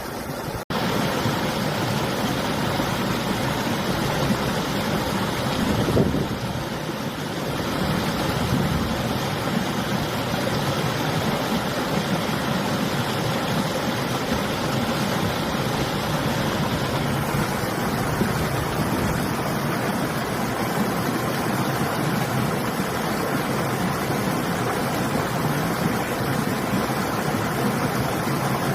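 Steady rushing noise of a river flowing, mixed with winter wind. The sound drops out for an instant about half a second in.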